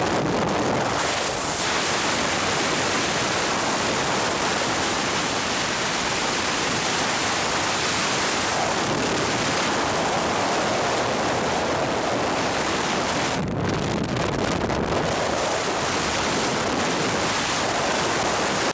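Loud, steady rushing roar of storm weather, wind and water noise with no let-up, thinning briefly a little after halfway.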